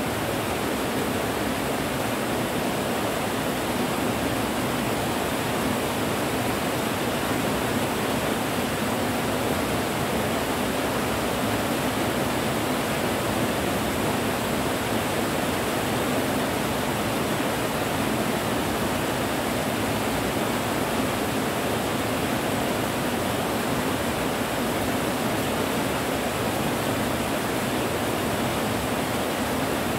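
Steady rain, a continuous even hiss that stays at one level with no breaks.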